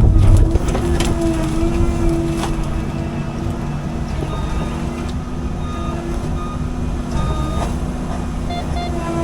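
CAT 310 excavator's diesel engine and hydraulics running steadily under load, with a held whine. From about four seconds in, short electronic beeps repeat roughly every second and a half, like a travel or backup alarm.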